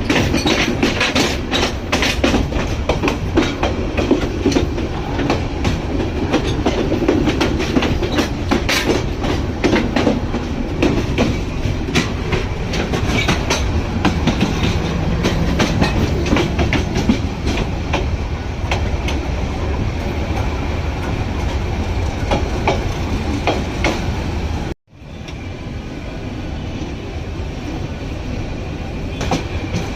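Moving train running, a steady rumble with many sharp clacks of wheels over the rails. The sound cuts out for an instant about five seconds before the end, then carries on slightly quieter.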